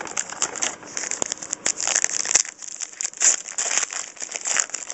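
Trading-card pack wrapper crinkling and crackling as it is handled and opened, in dense irregular bursts.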